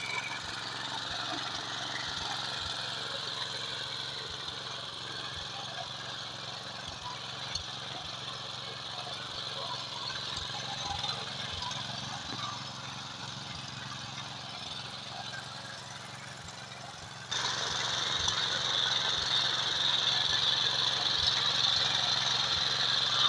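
Mini tractor's engine running steadily. About 17 seconds in the sound jumps suddenly louder and brighter.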